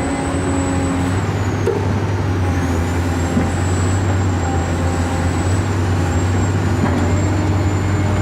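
A steady, loud mechanical hum with a thin high whine that dips in pitch about two seconds in and then holds steady, like a running motor or vehicle engine.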